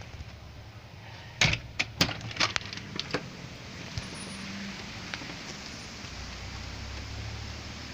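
About eight sharp clicks and knocks in quick succession over roughly two seconds, over a steady hiss.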